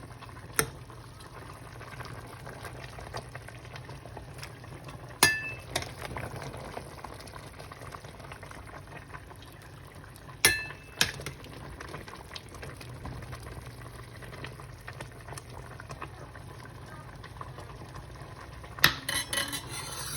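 Stew simmering with a steady bubbling hiss, while a metal utensil clinks sharply against the pot a few times, ending in a quick rattle of several clinks.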